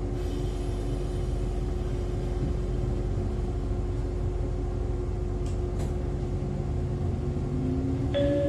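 Interior sound of an electric railcar with MT54 DC series-wound traction motors: a low rumble with a steady hum, then, about a second before the end, a whine that rises in pitch as the motors and gears pull the car away. A chime for an onboard announcement sounds right at the end.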